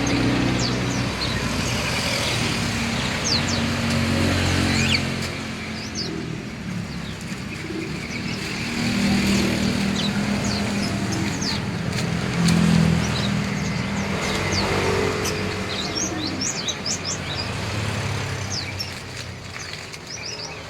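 Many small caged songbirds chirping with short, high, overlapping calls, over the steady rumble of passing road traffic.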